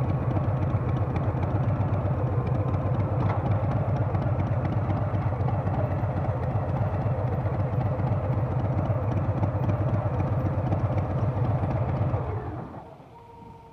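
Harley-Davidson Softail's Milwaukee-Eight V-twin engine running steadily with a dense low pulse, then falling away sharply near the end.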